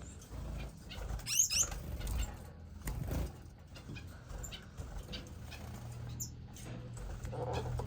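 Caged finches in a bird room: scattered short, high chirps and brief wing flutters and rustles, over a steady low hum.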